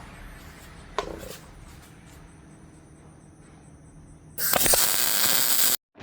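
A short burst of arc welding on a steel suspension link: a loud, even crackling hiss for about a second and a half, starting near the end and cut off abruptly. Before it, a low background hum and a single knock about a second in.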